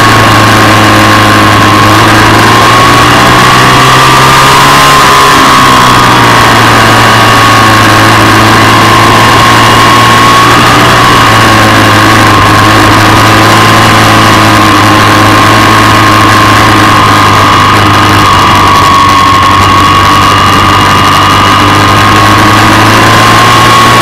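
Ducati 748's V-twin engine running loud and hard at a high, fairly steady pitch, heard from on board the bike, with only small shifts in pitch as it is ridden through corners.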